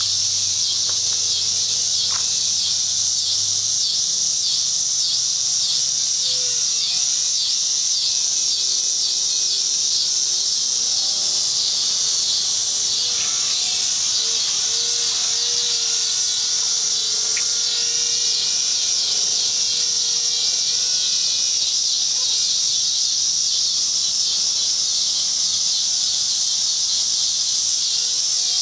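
A steady chorus of insects, cricket-like, pulsing about twice a second. A faint wavering hum that rises and dips runs underneath.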